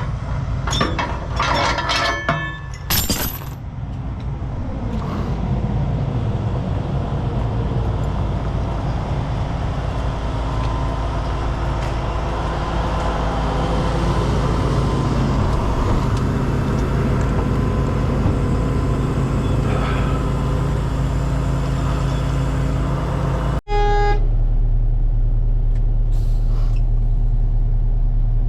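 Metal clinking and clanking for the first few seconds, as of chains and hooks being unhooked, then a heavy diesel truck engine running steadily. Near the end the sound cuts off abruptly and a steady low engine hum takes over.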